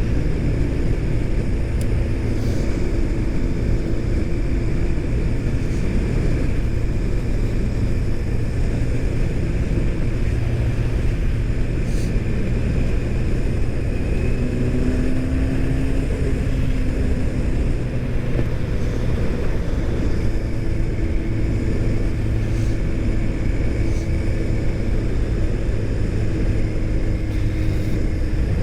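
Motorcycle under way at a steady pace: the engine runs with a dense low rumble of wind and road noise, its tone shifting in pitch about halfway through.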